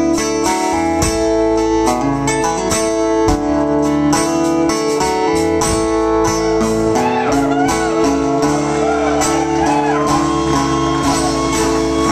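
Live band playing the instrumental close of a country-rock song, with strummed guitars ringing over sustained chords.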